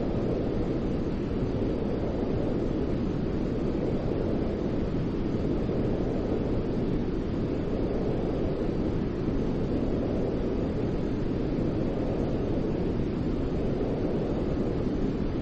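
Steady, low, rushing white noise with no speech or music, swelling and easing gently every few seconds. It is a continuous noise track for lulling a baby to sleep.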